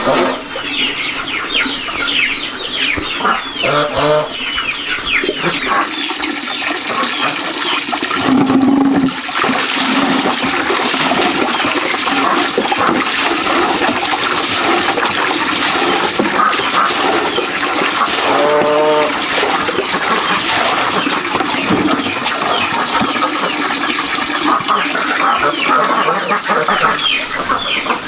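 Chickens calling, with many quick high cheeping chirps and a few lower clucks, over a steady rushing noise.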